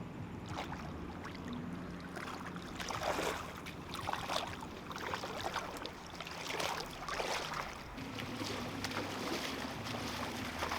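Water sloshing and splashing in repeated surges, over a steady low hum.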